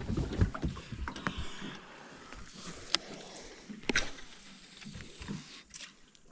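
Low knocks and bumps, then a few sharp clicks about three and four seconds in: gear and hull handling noise in a small boat while lure casting.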